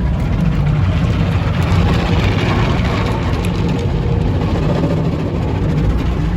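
Automatic tunnel car wash machinery heard from inside the car: a steady low rumble under a hissing wash of noise that swells about two to three seconds in.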